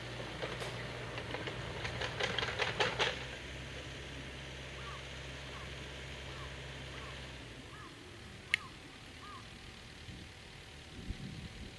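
A low, steady engine hum that stops about two-thirds of the way through, with a burst of rattling clicks near the start and a few short chirps and a sharp click later on.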